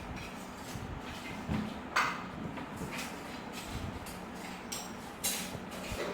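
Plastic weaving wire pulled and drawn through a bench's weave, giving a few separate scraping swishes, the loudest about two seconds in and again near the end, over a steady low hum.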